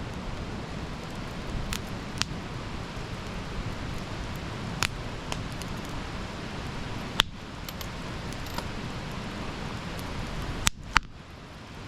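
Wood campfire burning: a steady low rush with sharp crackles and pops every second or two, the loudest about seven seconds in and a close pair near the end.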